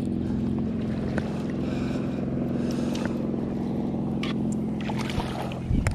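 A boat's motor running steadily with a low, even hum, with a few faint clicks along the way.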